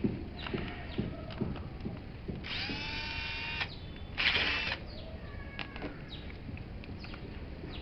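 Electric drill running in two bursts: the first about a second and a half long with its pitch rising as it spins up, the second shorter, about half a second. Light clicks and knocks of tools and parts being handled come before, between and after.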